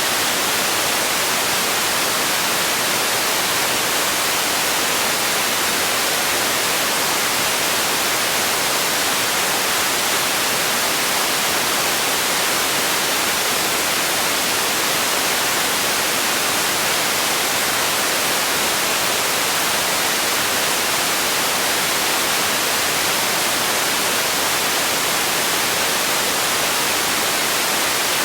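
Steady synthetic noise for sleep and relaxation: an unbroken, even hiss, bright in the treble and thin in the bass, with no changes.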